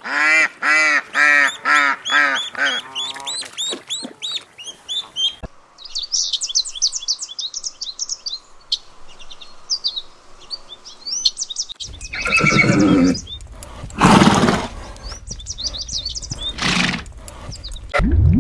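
A horse whinnying, a quick pulsing series of pitched calls that fades out over about three seconds. Then birds chirping steadily in high short notes, and in the last seconds a few louder, harsher animal calls of another kind.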